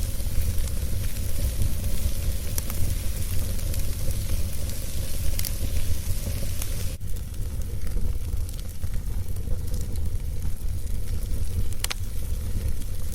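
Wood fire burning, with a steady low rumble under a hissing crackle and scattered sharp pops.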